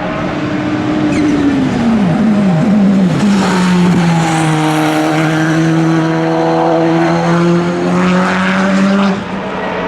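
A racing car's engine, its pitch falling in several quick steps as it downshifts, then holding a steady, loud note for several seconds. The sound drops away suddenly near the end.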